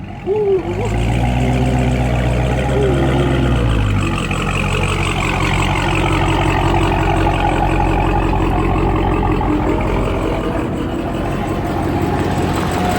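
The 2021 Dodge Charger SRT Hellcat Redeye's supercharged 6.2-litre V8 running with its mid-mufflers deleted, loud through the opened-up exhaust. A steady low drone for the first few seconds gives way to a busier, rougher sound about four seconds in.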